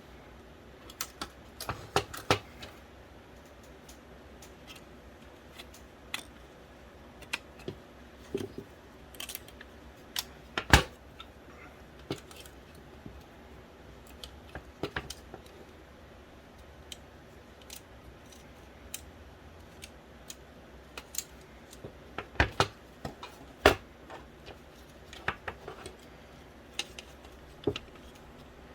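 Irregular clicks, taps and knocks of small plastic and metal parts being handled as an original Xbox's Philips DVD drive is taken apart by hand. There is a sharp knock about a third of the way through and a cluster of louder knocks about four-fifths of the way through.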